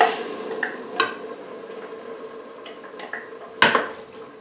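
A utensil stirring and scraping in the Instant Pot's inner pot, with sharp clinks against the pot at the start, about a second in and near the end, over a faint simmer of the liquid just added.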